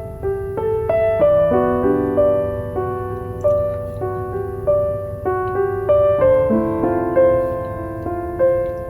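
Gentle piano music: a slow, even run of soft notes, a new note about every half second, over a low steady rumble.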